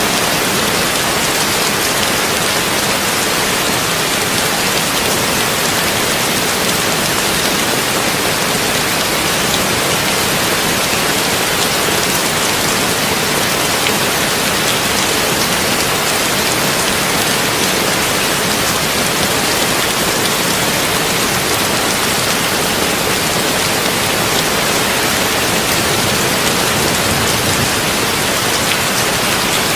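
Heavy rain drumming on a tin roof: a steady, dense hiss of drops, unchanging throughout.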